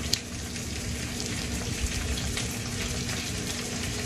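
Tomato and onion frying in a pan: a steady sizzle with small crackles and a sharp click shortly after the start, over a faint steady hum.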